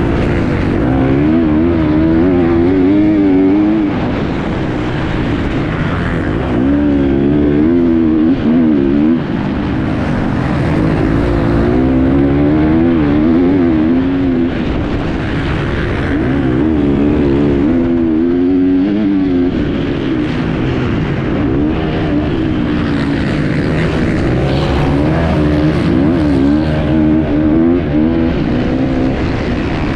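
Enduro motorcycle engine heard on board at race pace, its pitch rising and falling again and again as the throttle is worked, over a steady rushing noise.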